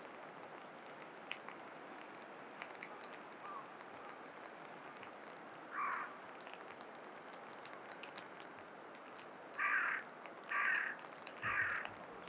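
A crow cawing: one caw about halfway through, then three louder harsh caws about a second apart near the end, over a faint outdoor hiss.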